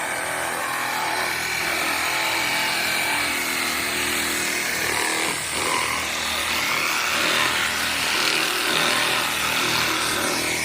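Power saw cutting through a boat's hull, running steadily under load; its whine drops for a moment about halfway through and then picks back up.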